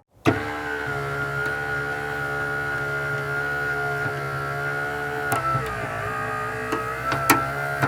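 A motor running steadily, a high even whine over a low hum. The sound cuts out for a moment right at the start, and there are a couple of sharp clicks near the end.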